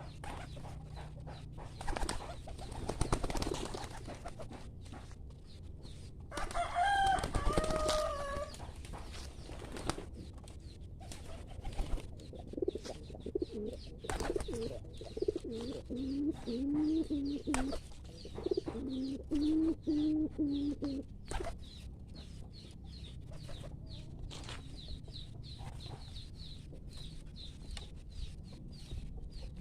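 Domestic pigeons cooing, a run of low, repeated rising-and-falling coos from about twelve to twenty-one seconds in, with frequent short clicks and taps throughout. A chicken gives one louder call about seven seconds in.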